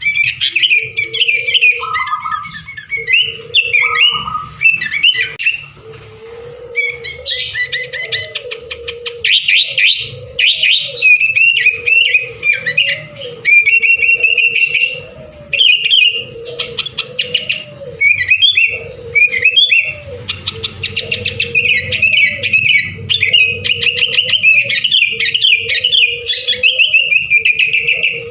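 Sooty-headed bulbul singing nonstop: rapid, varied chirping and warbled phrases one after another, with a lower wavering tone running beneath.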